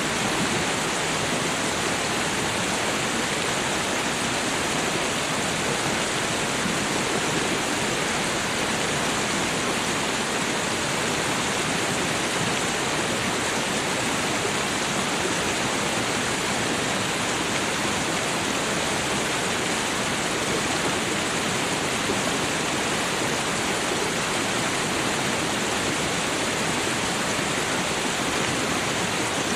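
Running water: a steady, even rush of a stream or cascade, unchanging throughout.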